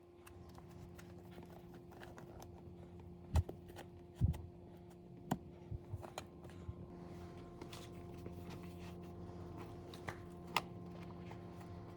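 A few sharp knocks and clicks, as of objects being handled, over a steady low hum.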